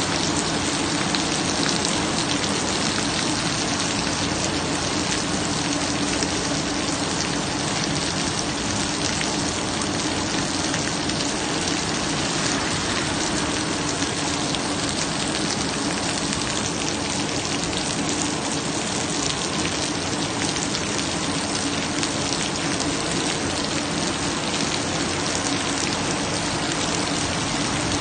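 Steady rain falling, a dense even patter of drops on surfaces, with a steady low hum underneath.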